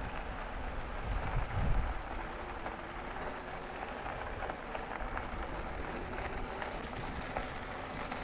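E-bike riding along a packed gravel trail: a steady crunch and rush of tyres rolling on the surface, with wind buffeting the microphone in a low rumbling gust about a second in.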